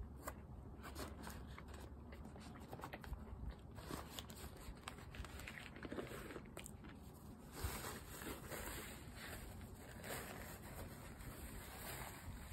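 Faint chewing of a fried chicken sandwich, with small crunches and mouth sounds. About halfway through, paper starts rustling and runs on to the end.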